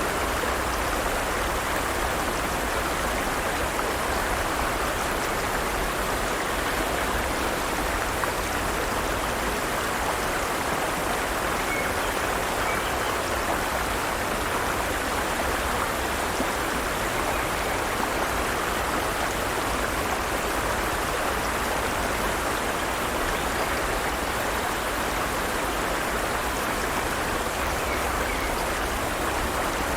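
Forest stream running steadily over rocks, an even rushing of flowing water.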